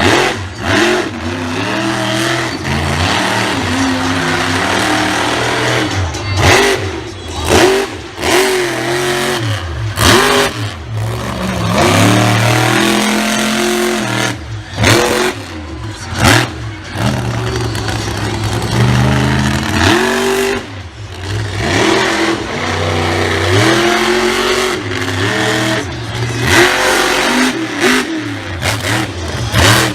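Monster truck engine revving hard, its pitch climbing and falling again and again, with several brief sudden drops in the sound.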